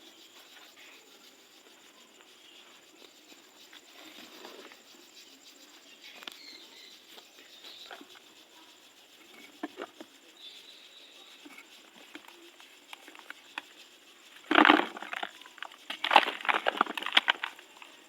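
Dry, dusty, crunchy material crumbling in a tub: faint scattered crackles at first, then loud, dense crunching about three-quarters of the way in.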